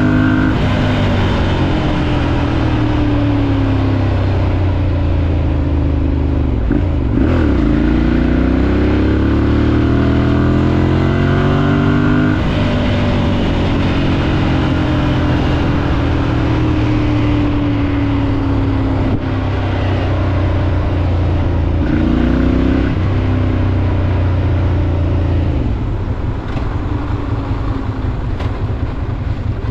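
Ducati Monster 796's air-cooled L-twin engine heard from the moving bike, revs climbing and dropping through gear changes as it accelerates and slows in traffic. Near the end it settles to lower, steadier revs.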